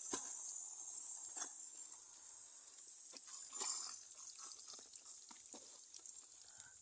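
Water hissing and dripping from a leaking HDPE pipe joint, the hiss fading steadily, with scattered small drips and ticks.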